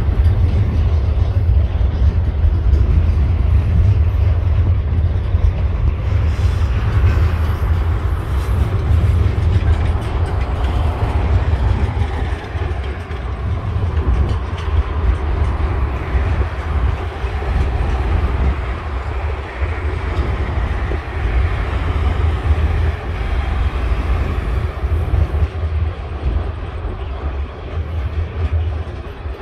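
Freight wagons rolling over a concrete rail bridge: a steady heavy rumble of wheels on rail that eases off a little about halfway through.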